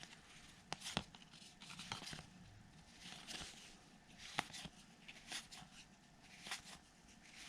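Faint handling of baseball trading cards: scattered light clicks as card stock is flipped and snapped together, with a soft rustle of sliding cards or pack wrapper about three seconds in.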